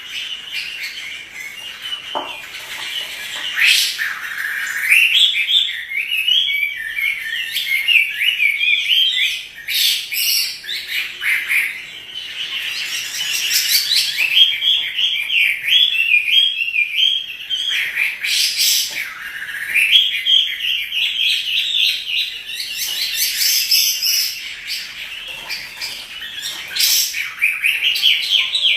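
Chinese hwamei in full song: a long, unbroken, varied warble of rapid rising and falling notes, with a few louder sharp whistled notes here and there.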